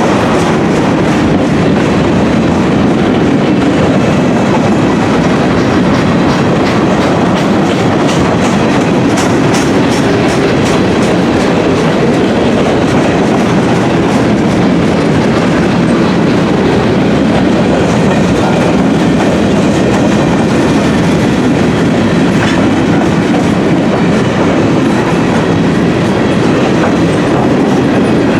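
Freight train of gondola cars rolling steadily past, steel wheels clicking over the rail joints above a continuous rumble.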